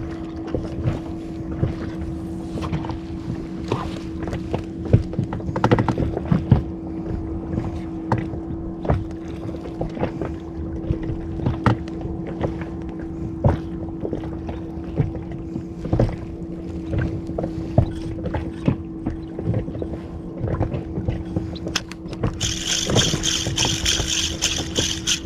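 Small inflatable fishing boat on the water: a steady motor hum with frequent short knocks and slaps against the hull. Near the end a hiss joins in.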